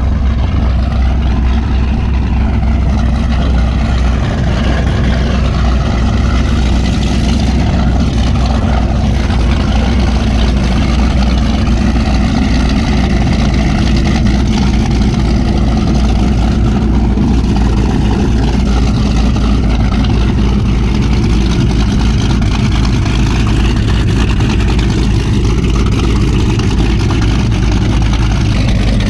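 High-performance powerboat engines running steadily at the dock, loud, with most of the sound low-pitched and no revving up or down.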